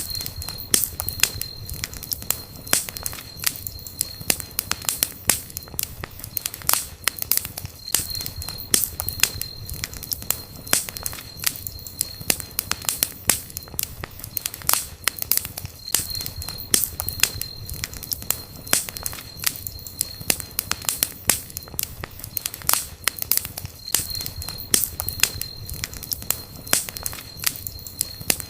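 Wood fire burning, crackling and popping steadily over a low rumble, with a thin high whistle coming and going about every eight seconds.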